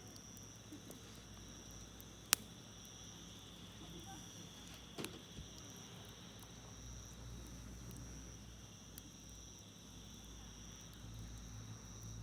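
Campfire wood crackling with scattered small ticks, one sharp loud pop about two seconds in and a smaller one near the middle. Insects trill steadily in a high pulsing band behind it.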